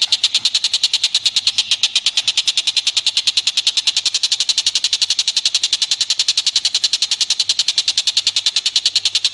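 Recorded animal chatter: a rapid, steady train of sharp high notes, about ten a second, repeating without change.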